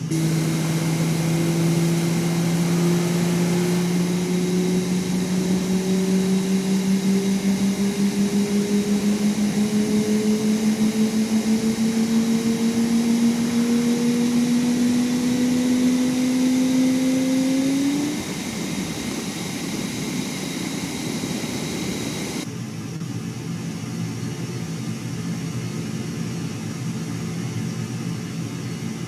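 An aircraft engine's low hum climbs slowly and steadily in pitch, with a pulsing beat, for about eighteen seconds. It then breaks off, leaving a steady, quieter rumble.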